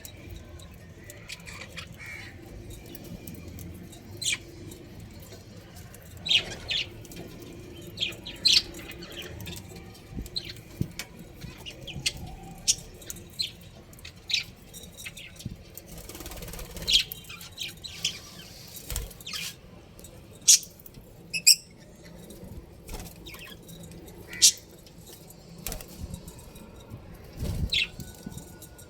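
Budgerigars chirping in many short, sharp, irregular calls, some loud and some faint, over a low steady background.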